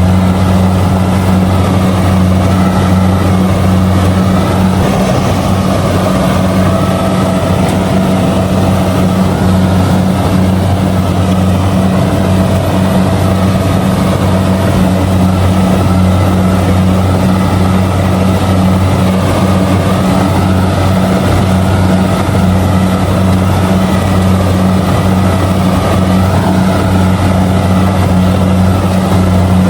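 Kubota DC70G combine harvester's diesel engine and machinery running at a steady speed while harvesting rice: a loud, constant low drone that doesn't change pitch.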